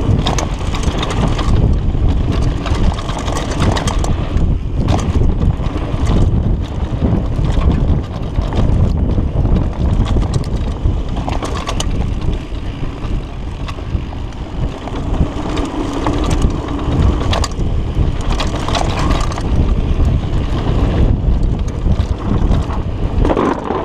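Mountain bike descending a dirt downhill trail at speed: constant wind buffeting on the microphone over tyre roar on dirt, with frequent knocks and rattles from the bike going over bumps.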